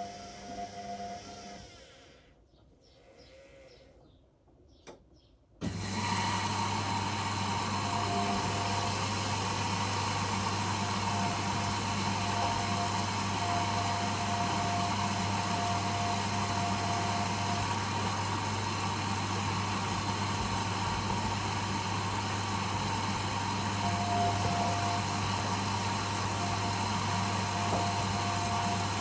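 Washing machine: a faint whining hum dies away, it goes almost quiet with a single click, and then about six seconds in a loud steady machine hum with a low buzz starts abruptly and runs on evenly.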